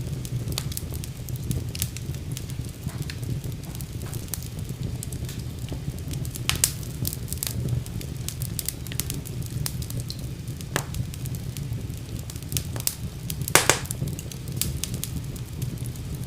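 Wood fire burning in a fireplace: a steady low rumble of flames with scattered sharp crackles and pops. The loudest pops come as a cluster about three-quarters of the way through.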